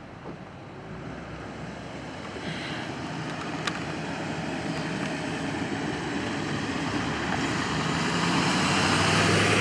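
Road traffic: an approaching vehicle's tyre and engine noise grows steadily louder, with a low engine hum coming in near the end as it draws close.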